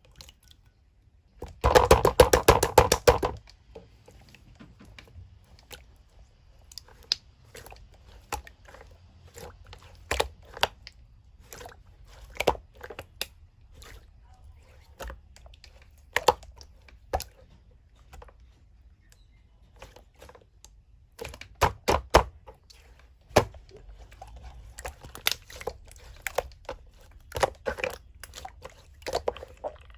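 Slime being squished and pressed by hand, making crackling clicks and pops from trapped air. There is a loud dense run of rapid crackles about two seconds in, then scattered pops, with busier clusters later on.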